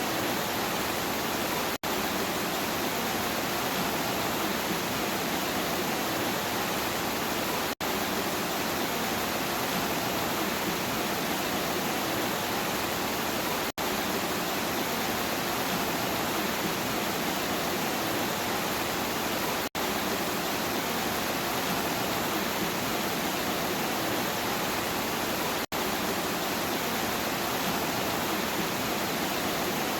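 Steady rain falling, an even hiss. It cuts out for an instant about every six seconds.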